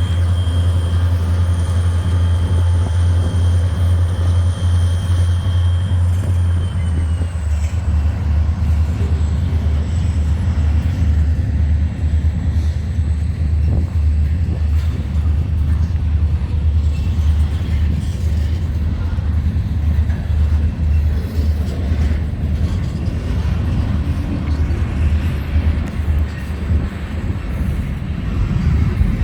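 EMD SD40-2 diesel-electric locomotives running, a steady low engine drone with a thin high whine that drops in pitch about seven seconds in.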